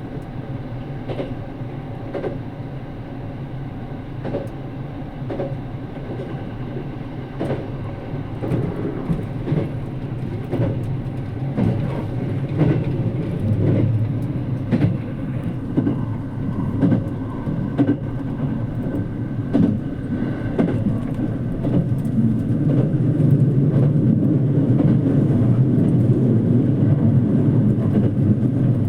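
Running noise heard inside the cabin of a JR Kyushu 787 series limited express train in motion: a steady low rumble with sharp clicks of the wheels over rail joints. The rumble grows louder about two thirds of the way in.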